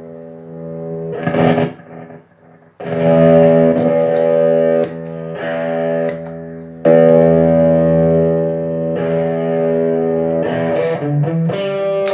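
Electric guitar played through an effects pedalboard into a Marshall AVT50 amplifier. Chords are struck and left to ring, with new chords about a second in, about three seconds in and about seven seconds in, then quicker changing notes near the end.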